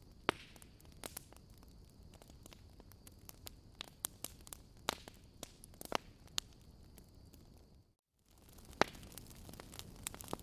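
Wood fire crackling in a fireplace: irregular sharp pops and snaps over a faint steady hiss. The sound cuts out completely for a moment about eight seconds in, then the crackling resumes.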